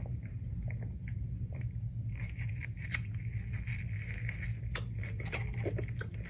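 Close-miked chewing and biting of McDonald's food, with many short irregular clicks and crackles from the mouth over a steady low hum.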